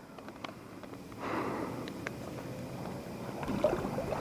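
River water running, an even rushing noise that swells in about a second in, with a few faint clicks from handling.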